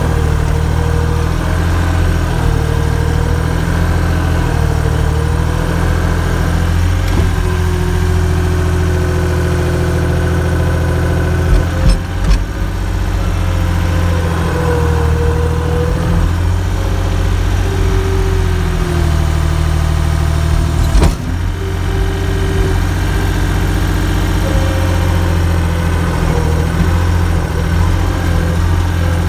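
Engine idling steadily, with a whine that wavers in pitch over it and two sharp knocks, about twelve and twenty-one seconds in.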